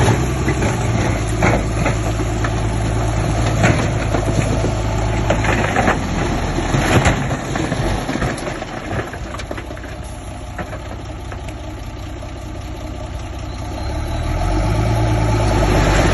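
Bulldozer's diesel engine running, with scattered clanks and knocks through the first half. The engine eases off for a few seconds, then builds up again near the end.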